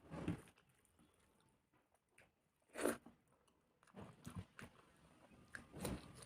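Close-miked eating sounds: a person chewing and biting food with crisp crunches, the loudest about three seconds in, then several smaller ones near the end.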